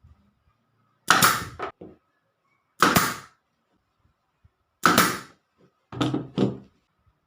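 Five sharp bangs, each with a short tail. They come about two seconds apart, and the last two are close together, near the end.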